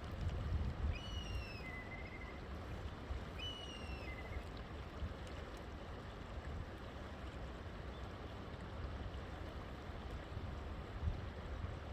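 A river flowing with a steady rush of water. A bird calls twice in the first few seconds, each call a short high arched note followed by a lower one.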